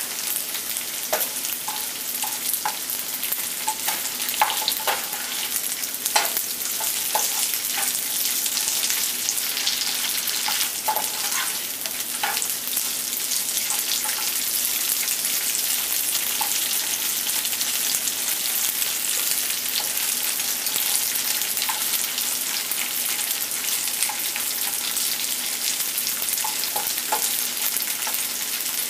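Cubed tofu sizzling steadily in hot oil in a nonstick frying pan, with a spatula stirring it and scraping and tapping the pan now and then, most often in the first half.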